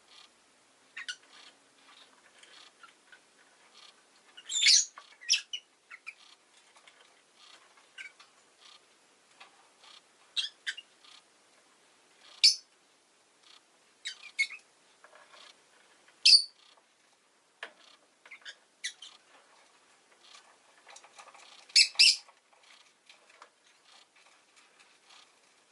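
Rosy-faced lovebird (Agapornis roseicollis) giving short, sharp, high chirps every few seconds, some in quick pairs, with faint clicking in between.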